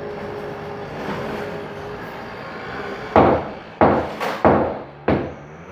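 A steady low hum, then five sharp knocks or thumps in about two seconds, each dying away quickly.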